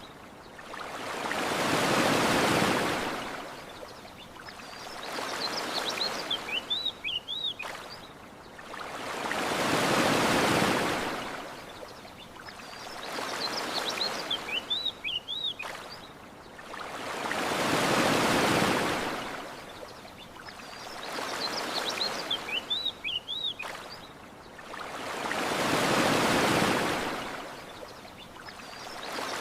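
Gentle ocean waves washing onto a shore, a bigger wave about every eight seconds with a smaller one between. Short bursts of high bird chirps come in the lulls.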